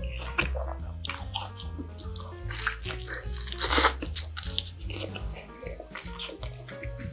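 Close-miked chewing of a mouthful of pizza, crackly and dense, with a loud crunchy bite into the slice a little past halfway. Soft background music with a steady bass line runs underneath.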